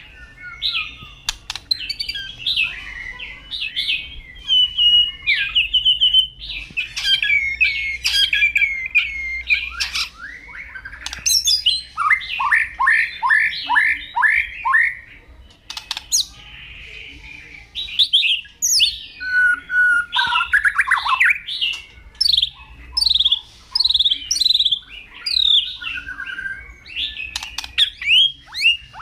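White-rumped shama (murai batu) singing a loud, varied song of whistles and harsh notes, with a fast run of repeated downward sweeps about twelve seconds in.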